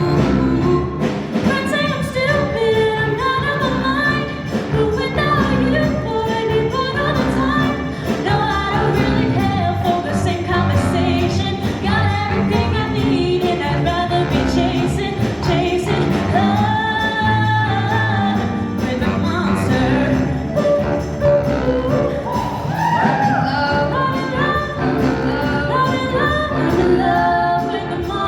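A show choir singing with a live band: sung voices over steady drums and accompaniment.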